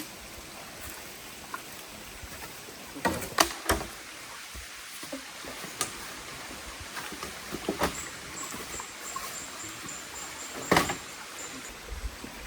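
Steady hiss of rain with half a dozen sharp knocks scattered through it, the loudest three close together about three seconds in. A high, rapid pulsed trill, like an insect call, runs for a few seconds in the second half.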